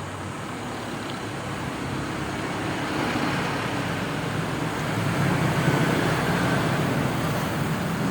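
Konzert AV-502A-USB amplifier playing a test sound through a loudspeaker, after its master volume control has been replaced. The sound is a steady, noisy rush that grows gradually louder, as the volume is turned up.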